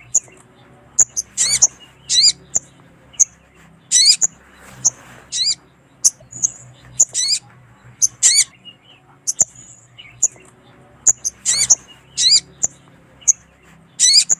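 Sogon bird (a small songbird used for luring and training) calls, said to be a female calling a male. Short, sharp, high chirps come in quick clusters every second or so, with a faint low hum underneath.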